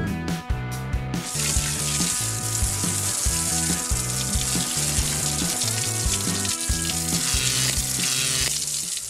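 Steady hiss of water spraying from a fire-truck hose, a sound effect that starts about a second in and stops just before the end, over background music with a repeating bass line.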